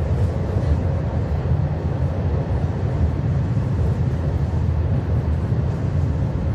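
Steady low rumble of a moving passenger train, heard from inside the carriage: the running noise of wheels on rails.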